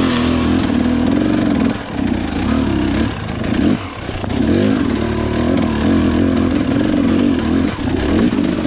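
KTM XC 300 two-stroke dirt bike engine revving up and down under throttle as it picks its way over rocks, with brief drops in revs about two and four seconds in.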